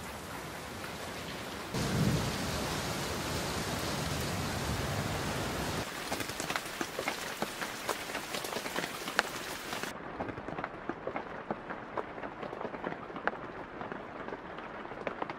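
Steady heavy rain, with a low rumble of thunder from about two seconds in until about six seconds. The rain then breaks into many separate drop ticks and, about two-thirds of the way through, turns muffled as its high hiss drops away.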